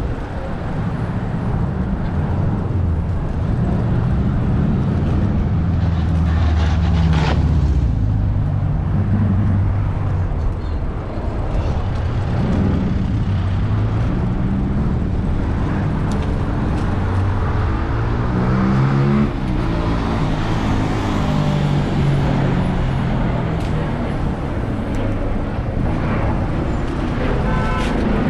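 City road traffic: engines of nearby cars and larger vehicles running and passing close by, with one vehicle going past about two-thirds of the way through, its pitch gliding.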